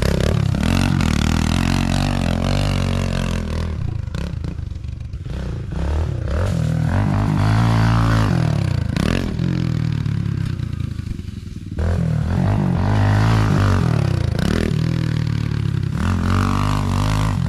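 110cc single-cylinder four-stroke dirt bike engine being ridden hard, its pitch climbing and dropping again and again as the throttle is opened and closed.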